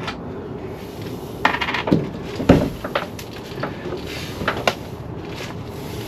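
Scattered metallic clinks and knocks as a car's boot lid is worked loose and lifted off. The loudest is a heavier knock about two and a half seconds in.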